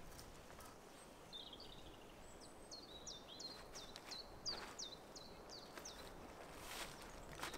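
A songbird singing a run of about a dozen short, high, repeated notes, roughly three a second, starting a couple of seconds in, over faint outdoor background noise with a few soft knocks.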